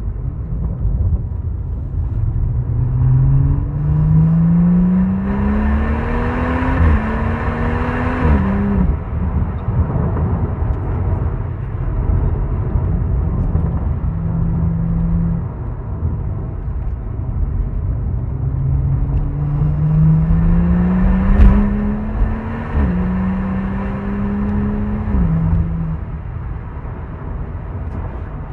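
2018 BMW M140i's turbocharged straight-six through a Remus cat-back exhaust, accelerating hard twice. Each time the engine note climbs, drops at an upshift and climbs again, with steadier cruising between. A heavy rumble of wind and road noise runs underneath, and a single sharp crack stands out about three-quarters of the way through.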